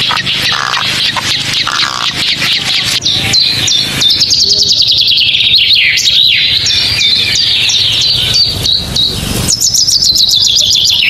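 Forest birds chirping in rapid, high-pitched runs of repeated notes that start about three seconds in and keep going, with rustling in the first few seconds and a brief rush of noise near the end.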